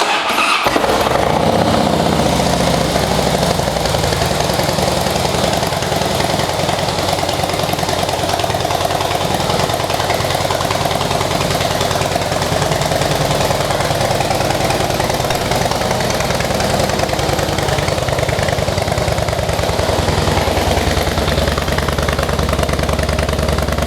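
2008 Harley-Davidson Heritage Softail Classic's 96-cubic-inch V-twin idling steadily through aftermarket mufflers.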